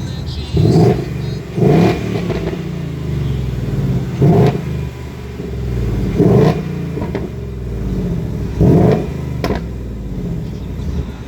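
Sports car engine idling and blipped five times with short, sharp revs that drop straight back to idle.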